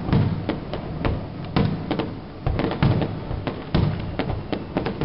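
Aerial fireworks bursting in a rapid series of booms and sharp bangs, several a second at times, each trailing off in a short echo.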